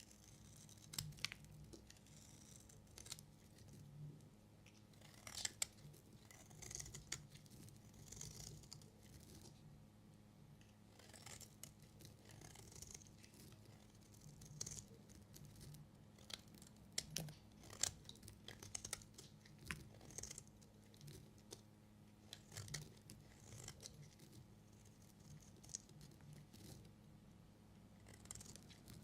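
Knife cutting through bars of soap: irregular crisp cracks and short scraping strokes, a few every couple of seconds.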